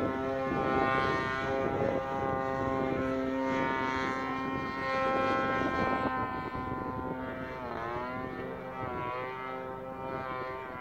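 Two-stroke Evolution 33 gas engine of a radio-controlled aerobatic model plane, running steadily. About two thirds of the way through its pitch dips and swoops back up a couple of times.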